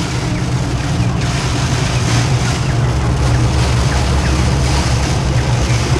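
A steady, loud rushing noise with a low hum under it, and faint high chick peeps scattered through it.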